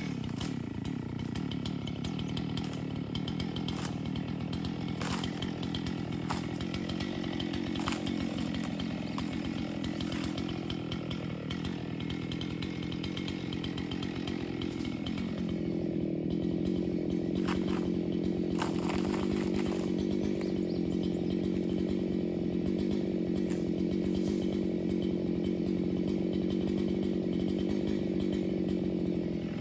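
Chainsaw engine idling steadily after being throttled down, picking up slightly in speed about halfway through, with scattered light clicks.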